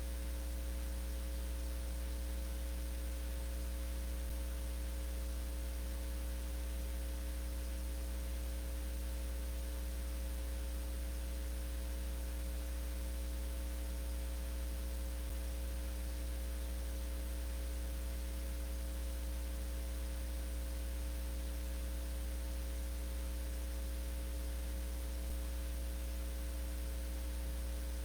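Steady electrical hum with a faint hiss underneath, unchanging throughout, with no other sound.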